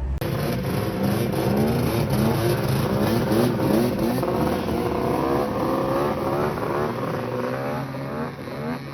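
Snowmobile engine running hard and revving up and down again and again, its pitch wavering as the throttle is worked.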